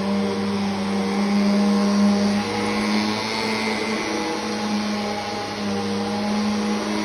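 Vacuum cleaner running steadily: a motor hum with the rush of air through it, the overtones shifting a little as it works.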